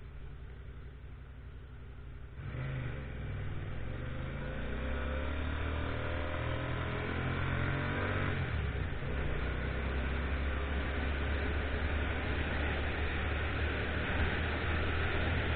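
Motorcycle engine idling low, then pulling away about two seconds in with the pitch rising steadily. About eight seconds in the pitch drops sharply, as in an upshift, and the engine runs on steadily under a rush of wind noise.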